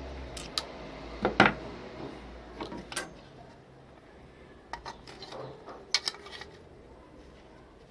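Scattered clicks and knocks of hard objects being handled, the loudest cluster about one and a half seconds in, with a few more near the middle and around six seconds.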